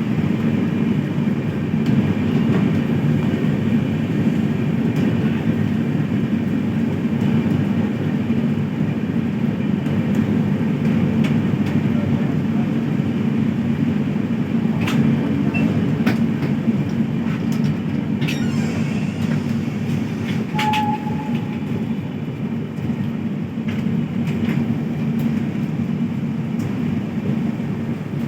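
Passenger train running along the track, a steady rumble with a few sharp clicks of the wheels and carriages about halfway through.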